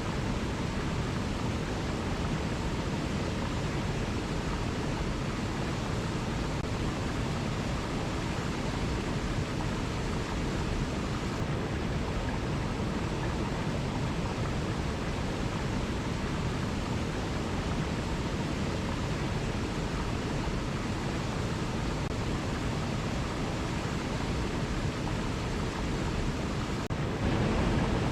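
Waterfall: a steady, even rush of falling water that gets slightly louder near the end.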